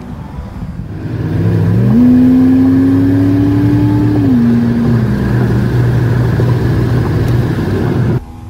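Car engine revving up hard, holding high, then easing back in steps and running on steadily, before cutting off abruptly near the end.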